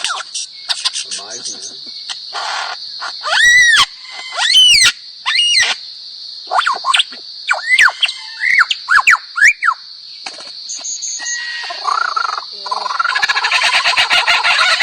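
Lyrebird singing a run of mimicked calls: loud arched whistles, then a quick series of downward-swept notes, then rapid repeated notes near the end, over a steady high hum.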